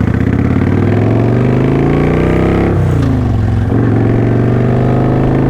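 2009 Kawasaki Vulcan VN900 Classic LT's V-twin engine pulling, its revs rising for nearly three seconds, then falling sharply and settling to a steady run.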